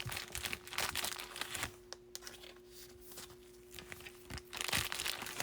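Crinkling and rustling of baseball card pack wrappers and cards being handled, in several short bursts, over a faint steady hum.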